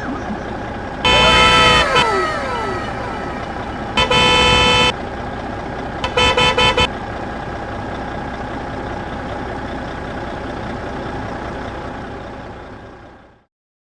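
Steady engine drone with three loud horn honks, the last one a string of quick toots; a few falling whistling tones trail after the first honk. The engine sound fades out near the end.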